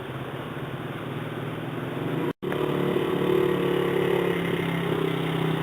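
Small dirt bike engine running steadily. A little over two seconds in the sound drops out for a moment at a cut, then comes back louder.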